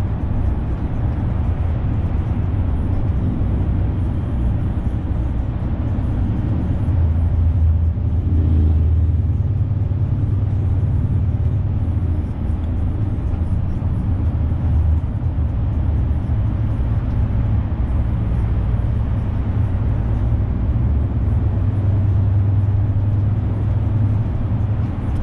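Renault truck's diesel engine running as the truck drives, with road noise: a steady low rumble that swells slightly a couple of times.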